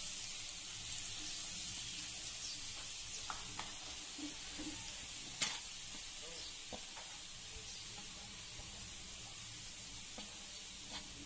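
Grated carrot frying in hot ghee in a kadai: a steady sizzle that slowly dies down, dotted with small pops, and one sharp click about halfway through.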